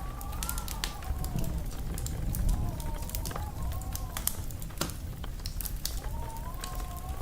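Wood fire crackling and popping over a low rumble of flames, with irregular sharp snaps. A faint wavering whistle runs underneath, fading in the middle and returning near the end.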